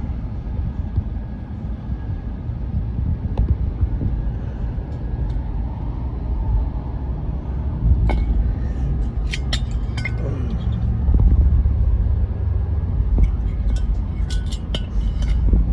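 A steady low rumble, with scattered sharp metallic clinks and knocks: a group about halfway through and another near the end.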